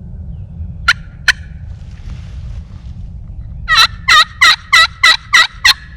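Turkey calling: two sharp single clucks about a second in, then a run of seven loud, evenly spaced yelps, about three a second, in the last two seconds.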